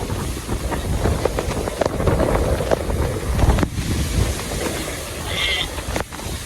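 Heavy rain in strong gusting wind, with the wind buffeting the microphone. About five seconds in comes a brief high-pitched cry.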